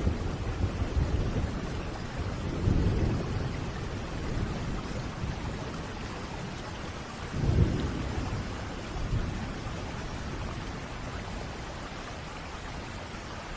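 Steady rain falling through a thunderstorm, with low thunder rumbling several times. The loudest roll comes about halfway through, and the rumbles die away toward the end, leaving only the rain.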